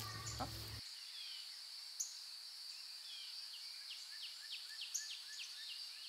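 Background music cuts off just under a second in, leaving faint outdoor ambience: birds calling in a series of short downward-sliding notes over a steady high-pitched hum.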